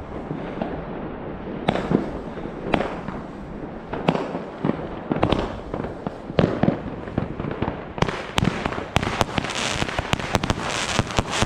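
New Year's Eve fireworks going off: a run of irregular bangs, then from about eight seconds in a dense hissing crackle with many quick cracks.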